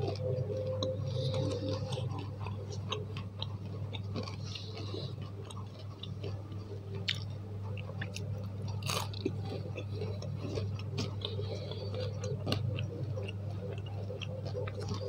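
Close-miked chewing of a fried eggplant fritter (bakwan terong), with scattered small crisp clicks and crunches throughout.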